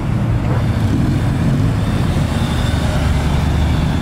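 A car engine running steadily with a deep, low-pitched sound.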